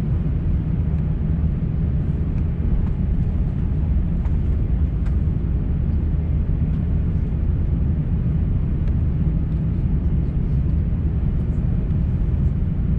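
Airbus A350-900 cabin noise heard from a window seat: a steady low rumble of engines and airflow, with a few faint ticks.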